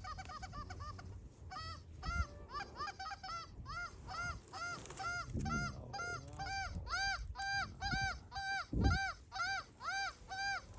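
Goose honks in a quick, even series, about two to three short calls a second, growing louder after about a second and a half. A low thump sounds near the end.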